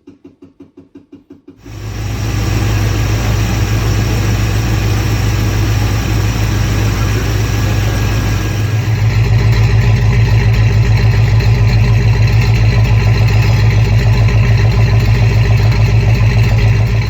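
Truck's swapped carbureted engine, with long-tube headers and a Hooker exhaust, is cranked by the starter for about a second and a half, then catches and runs with a throaty exhaust note. About nine seconds in it gets louder and stays there.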